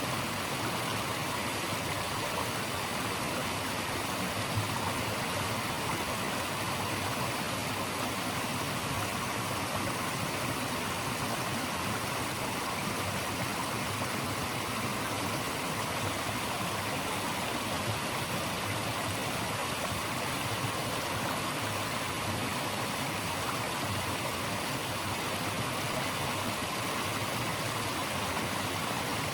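Steady rushing of flowing water, as from a stream, making an even natural noise without breaks.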